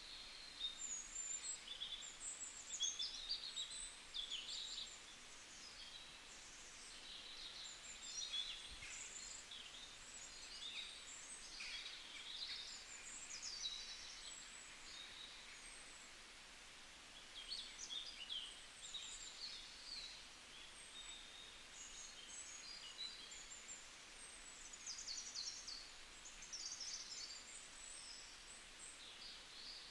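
Birds chirping: many short, high calls in clusters over a faint steady hiss, with a short lull about halfway through.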